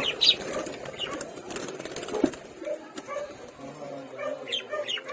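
Lovebirds chirping in short, scattered calls. In the second half a lower short note repeats evenly, about three times a second.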